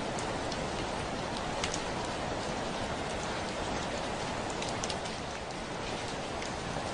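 Steady heavy rain falling on a window, an even hiss with separate drops ticking against the glass now and then.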